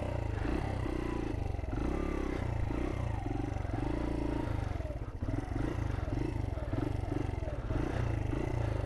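Small 50cc moped engine running, its revs repeatedly rising and falling as it is ridden over rough, slippery ground.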